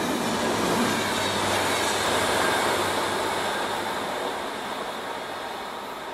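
Electric passenger train running past on the track and then away, its wheel and rail noise at its loudest early on and fading gradually as it recedes.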